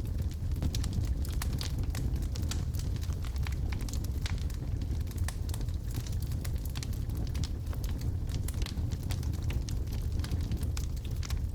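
Wood logs burning in a fireplace: frequent sharp crackles and pops scattered over a steady low rushing of the flames.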